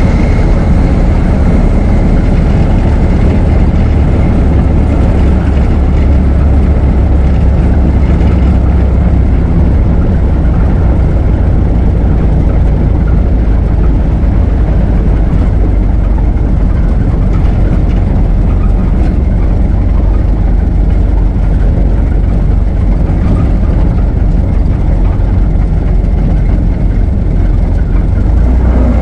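Ford Model T's four-cylinder engine running steadily as the car is driven, a continuous low rumble.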